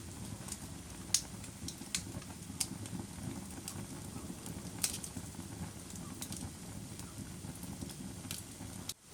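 Wood fire in a fireplace burning with a steady low rumble, crackling and popping at irregular moments, the loudest pops about one, two and a half and five seconds in. The sound drops out for a moment just before the end.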